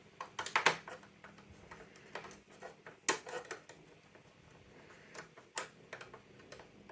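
Irregular clicks and light knocks of hard plastic telephone parts and a hand tool being handled during reassembly. There is a quick cluster in the first second, then single sharp clicks about three seconds and five and a half seconds in.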